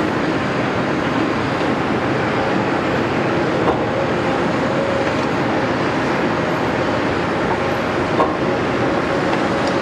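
Caterpillar 329E hydraulic excavator running steadily under work, with two short sharp knocks, one a few seconds in and one near the end.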